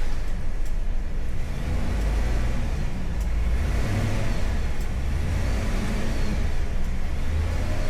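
A Chevrolet Tahoe SUV driving slowly, its engine running at a steady low rumble with tyre and road noise. It is heard from inside the cabin with the windows down.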